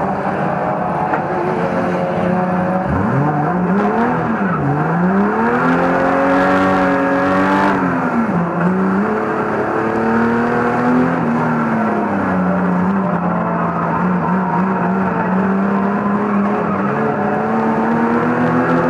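Banger racing car's engine heard from inside its own cabin. The revs drop and climb sharply several times in the first half, then hold fairly steady and climb a little near the end.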